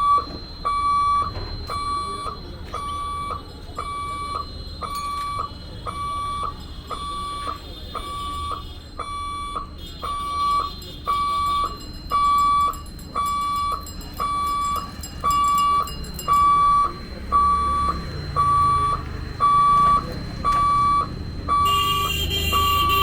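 Level crossing warning buzzer beeping steadily at about one high-pitched beep a second, sounding as the gate is closed for an approaching train. A low rumble builds underneath in the last few seconds.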